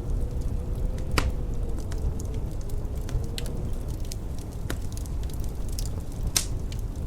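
Wood fire crackling in a fireplace, with scattered sharp pops, the loudest about a second in and near the end, over a steady low rumble.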